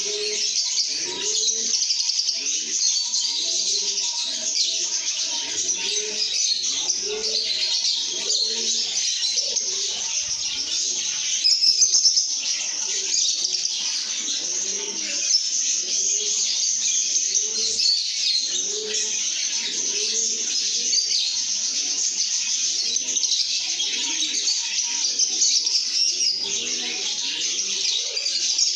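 A flock of lovebirds chattering and chirping nonstop in a dense, high-pitched twitter. Beneath it, a lower call repeats about once a second.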